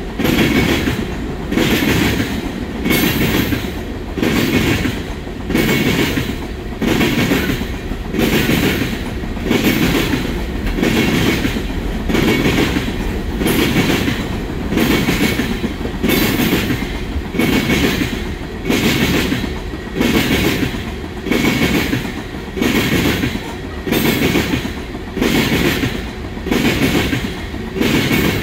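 Freight train of railroad tank cars rolling past at steady speed, the wheels clacking over the rail joints in a regular beat a little more than once a second.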